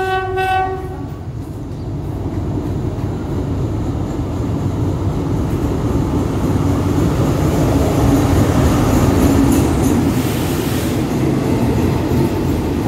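Diesel locomotive of a passenger express train sounds one horn blast of about a second, then its engine and wheels on the rails grow steadily louder as the train pulls in alongside the platform.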